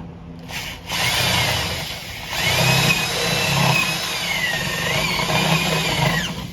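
Power drill running a step bit (Unibit) to bore out a hole in the trailer's side sheet: a quick blip, then a sustained whine whose pitch sags and recovers as the bit bites, with a grinding cut underneath, stopping near the end.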